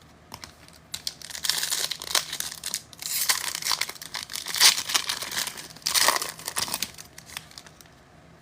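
A trading-card pack wrapper being torn open and crinkled, in repeated crackling bursts that start about a second in and die away near the end, with a few light clicks before them.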